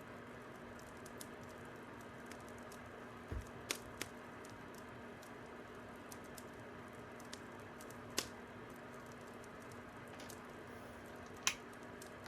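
Fire crackling: a faint steady hiss with irregular soft ticks and a few sharper pops, the loudest about eight seconds in and near the end.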